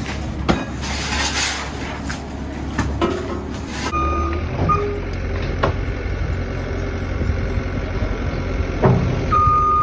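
A heavy machine's engine running steadily, with sharp knocks and clanks of demolition debris and a couple of short high beeps of a backup alarm.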